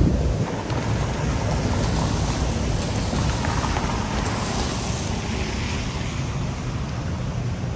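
Tropical-storm wind and heavy rain: a steady hiss with low wind rumble on the microphone. A louder hiss swells and fades about halfway through.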